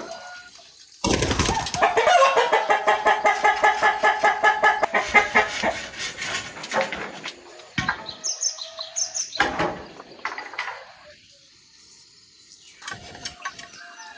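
Chickens squawking loudly with rapid wing-flapping, starting suddenly about a second in and fading out after about six seconds, with a few short high cheeps afterwards.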